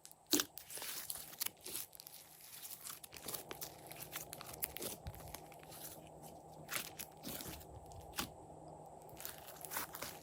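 Slime being squished and mixed by hand, with irregular sticky clicks and crackles, some of them sharp pops.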